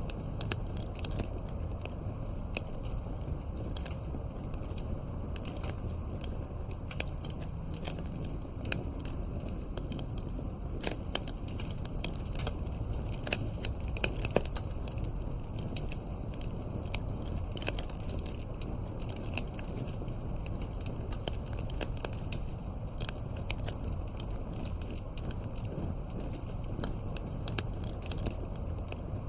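Campfire burning, with a steady low rumble and irregular sharp crackles and pops of burning wood, a few louder pops scattered through.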